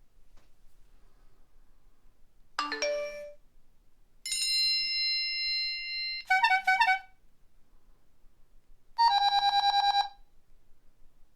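A run of separate electronic phone ringtone and alert sounds: a short rising chime of three notes, then a held electronic tone about two seconds long that breaks into a quick warbling ring, and after a pause about a second of rapid trilling ringer.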